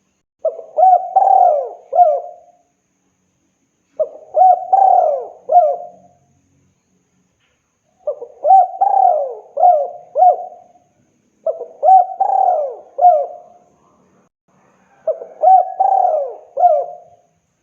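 Male spotted dove (tekukur) cooing to call a female. It gives five phrases of a few cooing notes each, one about every three and a half seconds, with silence between them.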